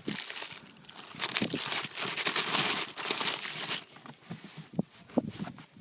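Packaging crinkling and rustling as a subwoofer is pulled out of its box, loudest about two to three and a half seconds in, then a few light knocks near the end.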